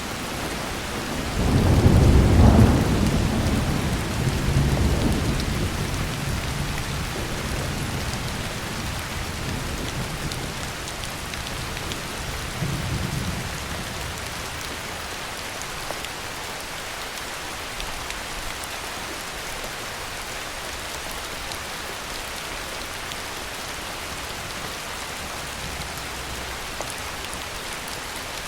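Heavy rain falling steadily with rolling thunder: a loud low rumble about two seconds in that fades away over several seconds, and a softer rumble around thirteen seconds in.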